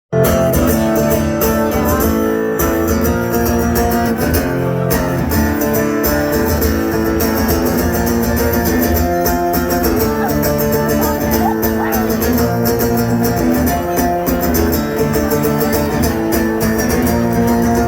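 A live band playing the instrumental opening of a song, led by guitar.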